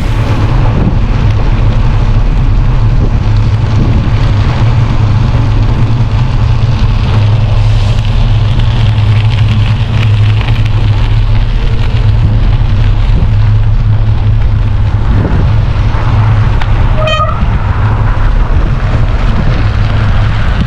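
Wind buffeting the microphone and studded bicycle tyres rumbling over snow while riding, a steady loud low rumble. About seventeen seconds in, one short high beep like a horn toot.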